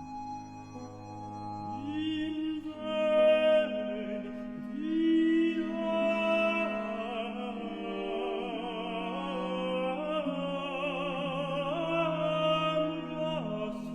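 Countertenor and tenor singing a slow baroque duet with vibrato, entering about two seconds in over a soft accompaniment of recorders and basso continuo.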